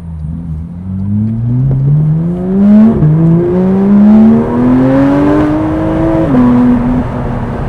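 Porsche 911 GT3 RS (992) 4.0-litre flat-six through a valved titanium F1-style exhaust, accelerating through the gears. The engine note climbs and drops at an upshift about three seconds in, climbs again, then drops at a second shift a little past six seconds in and runs steady.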